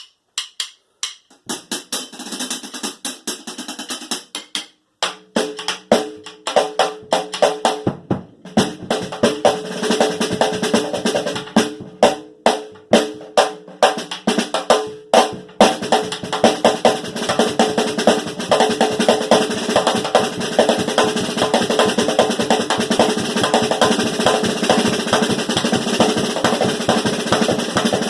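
A drum kit being played, mostly fast snare-drum rolls and fills. The strokes are spaced out at first, then run as a dense, continuous roll from about eight seconds in.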